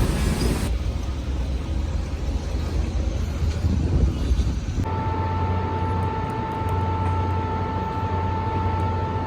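Steady rumble of a moving vehicle heard from inside the cabin. About five seconds in, a steady high whine joins it over a low hum.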